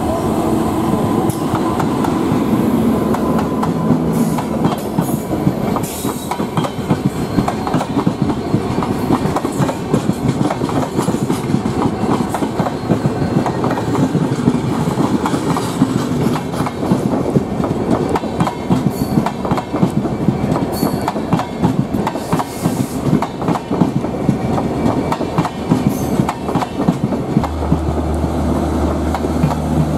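Tejas Express passenger coaches passing close at speed: a rapid, continuous clickety-clack of wheels running over the rail joints, with rolling wheel-and-rail noise. A steady low hum comes in near the end.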